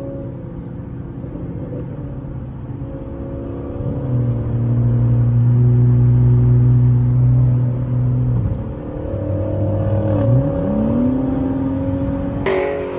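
Car engine revving through a loud exhaust: held at high revs for about four seconds, dropping off, then climbing again, with the exhaust crackling and popping.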